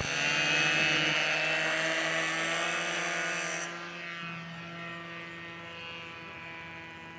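Radio-controlled model airplane's motor running with a steady droning tone. About three and a half seconds in, it is throttled back and goes on quieter, as the plane comes in to land.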